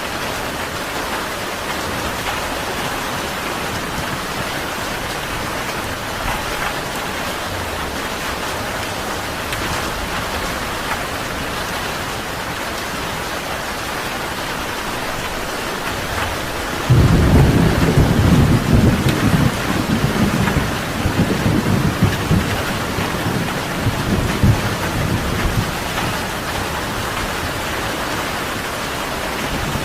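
Steady rain falling throughout. A little past halfway a sudden crack of thunder breaks in and rolls on for about nine seconds before fading back under the rain.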